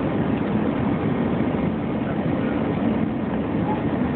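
Steady low cabin noise of an airliner in flight or landing: jet engines and rushing air heard from inside the passenger cabin, even throughout with no distinct thumps or events.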